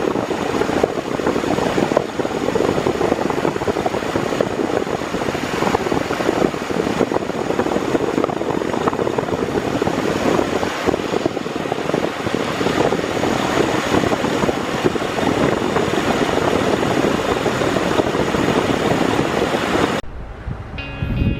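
Steady vehicle running noise, a dense even rumble with no clear engine note. It cuts off suddenly near the end and music follows.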